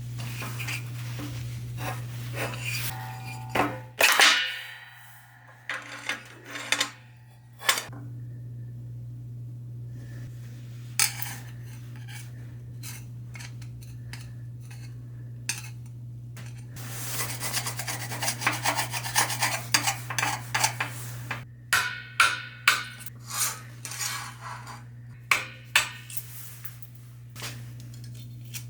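Metal parts of an air compressor pump head being handled on a bench: scattered clinks and knocks, one ringing metal strike about four seconds in, and a few seconds of scraping and rubbing past the middle, over a steady low hum.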